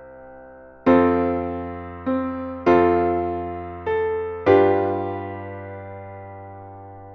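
Solo piano accompaniment playing a slow passage: five chords struck in the first few seconds, the last left to ring and fade away.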